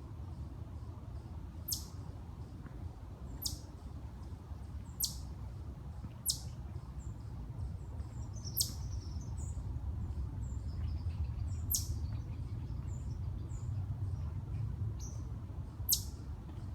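A small animal's call: seven short, very high chirps at irregular intervals, each dropping steeply in pitch, over a steady low rumble.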